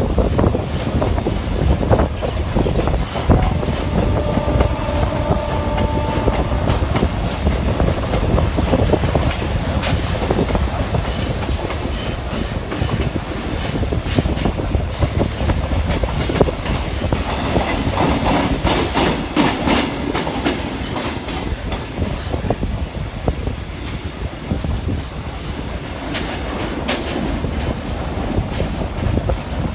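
Suburban electric local train running along the track: steady rumble with wheels clattering rapidly over rail joints. A brief steady tone sounds about four seconds in.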